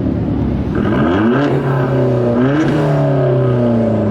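Car engine accelerating hard: its pitch climbs twice and drops back after each climb, as in gear changes.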